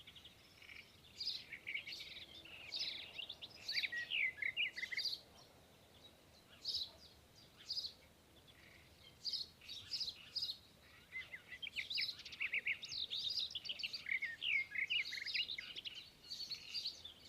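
Small birds chirping: many quick, high chirps in busy clusters, with a thinner stretch in the middle.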